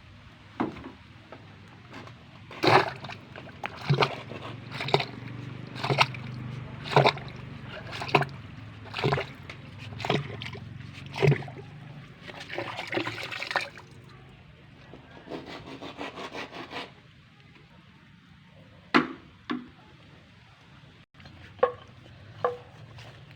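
Hand-worked well boring: regular knocks about once a second as the drill pipe is worked in the borehole, followed by mud and water sloshing and splashing, then a few more scattered knocks near the end.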